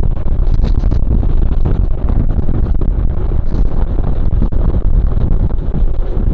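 Wind buffeting the camera microphone on a fast mountain-bike descent, with the bike rattling and clattering over rough trail.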